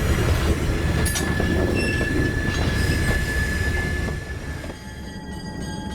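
Train rolling on the track, heard on board: a low rumble with a few clicks and a thin steady wheel squeal that lasts a few seconds. The sound drops quieter about three-quarters of the way in.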